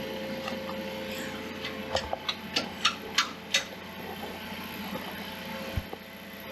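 About six sharp clicks in quick succession, roughly three a second, over a steady background hum, followed a couple of seconds later by a single low thump.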